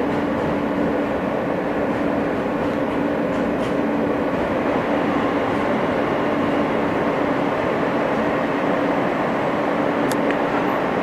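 Inside an R160 subway car running between stations: a steady rumble of wheels on rail with a constant hum. A short, high squeak comes about ten seconds in.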